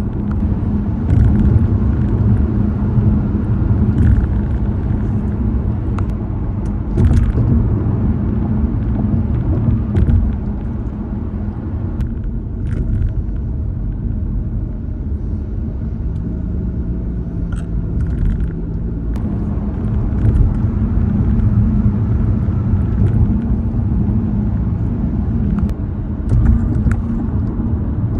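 Car tires rolling over bridge pavement, heard from inside the cabin: a steady road rumble and hum, broken every few seconds by sharp thumps as the tires cross bridge joints.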